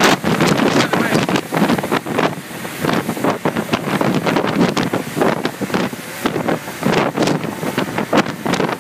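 Wind buffeting the microphone in uneven gusts on a moving boat, with the rush of water underneath.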